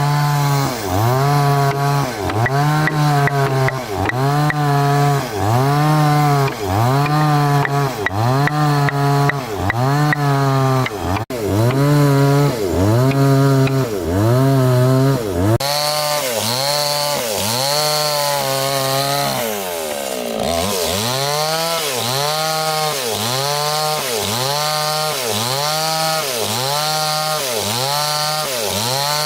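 Chainsaw running under load while cutting wood. Its engine pitch dips and recovers about once a second with each stroke into the timber, with one deeper drop about two-thirds of the way through.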